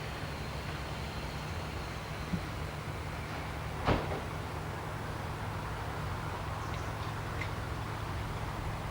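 Steady low rumble of an idling diesel locomotive, with a small click about two seconds in and a single sharp knock about four seconds in.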